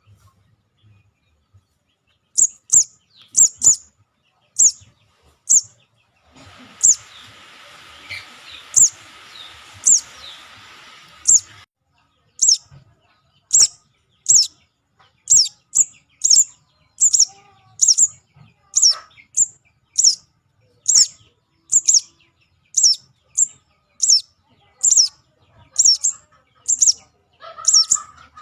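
Juvenile sogon calling: short, sharp, high chirps repeated about one to two a second, played as a bird-trapping lure call. For about five seconds near the middle a steady hiss with fainter chirps runs under them.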